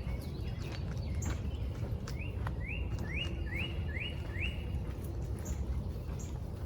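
A songbird singing a quick series of five rising whistled notes, about three a second, over a steady low rumble and scattered light clicks.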